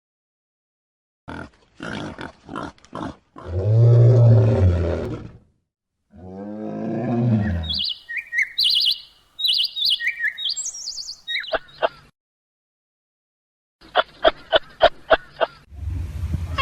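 A string of separate animal calls with silent gaps: a few short calls, a loud low drawn-out call, then a call falling in pitch, followed by a long run of high, quick chirps and, near the end, a fast series of sharp clicks.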